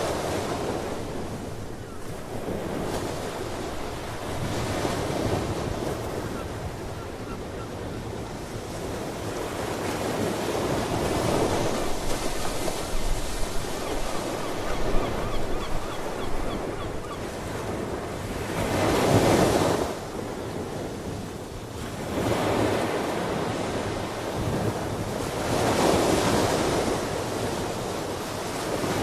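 Ocean surf breaking on the shore, swelling and falling back every few seconds, with the biggest wave about two-thirds of the way through. Wind rushes over the microphone.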